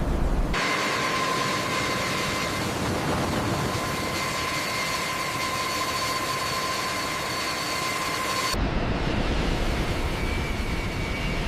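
Jet aircraft engines running with a steady high whine over a loud rushing hiss. This cuts off suddenly about eight and a half seconds in, giving way to a low rumble.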